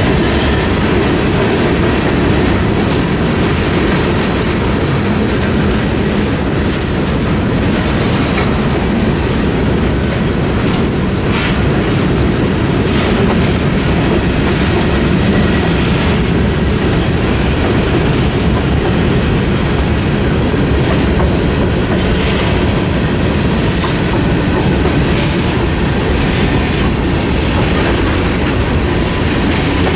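Freight cars of a mixed freight train (boxcars, covered hoppers and tank cars) rolling steadily past through a level crossing: a continuous rumble of steel wheels on rail with a clickety-clack over the joints and occasional sharper knocks.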